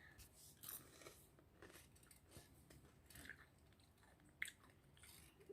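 Faint, irregular crunching of someone chewing crispy deep-fried battered seafood.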